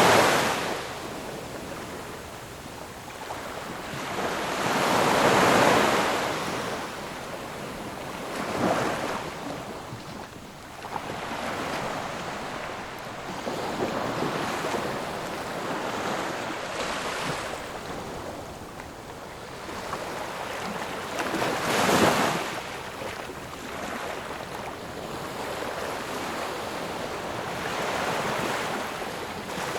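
Ocean waves breaking and washing on a shore, the surf swelling and ebbing irregularly, with bigger waves about 5 seconds in and again at about 22 seconds.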